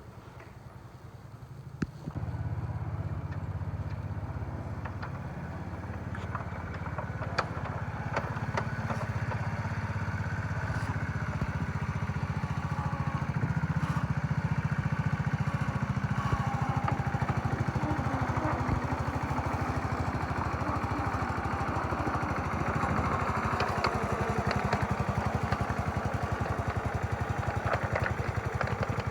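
Small engine of a ride-on backyard-railway locomotive running steadily. It starts abruptly about two seconds in and grows louder over the first half, with occasional clicks.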